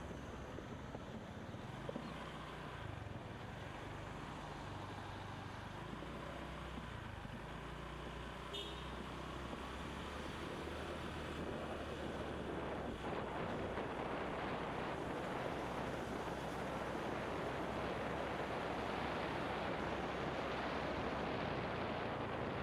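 Motorbike engine running under way, its pitch shifting up and down in steps, under wind rushing over the microphone that grows louder about halfway through. A short high chirp comes about eight seconds in.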